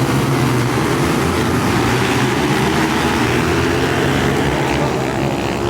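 Pit bike engine running hard at high revs on track, a steady buzzing drone with broad wind and road noise over it.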